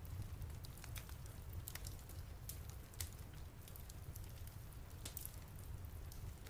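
Wood fire crackling in a fireplace: irregular snaps and pops over a steady low rumble, with a sharper pop about three seconds in and another right at the end.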